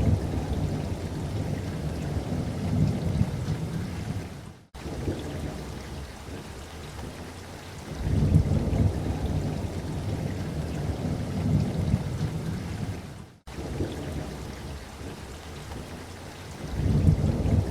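Steady rain with rolling thunder: a deep rumble swells near the start, again about eight seconds in, and once more near the end. The sound cuts out sharply for an instant twice, at evenly spaced points.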